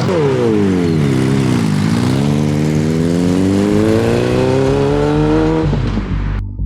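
Car engine revving: the pitch falls for about two seconds, then climbs steadily as it accelerates, and the sound cuts off abruptly near the end.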